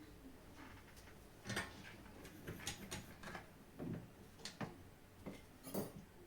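Faint, irregular clicks and light knocks from small parts and tools being handled while a PS5 DualSense controller is worked on, with several sharper taps about a second and a half in, around four and four and a half seconds, and near the end.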